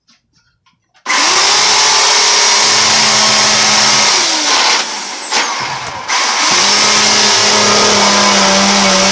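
Black & Decker GK1640 electric chainsaw starting up about a second in with a loud motor whine, its pitch sagging as it bites into damp timber. It cuts out for a moment just after five seconds, then runs again, struggling to get through the wood.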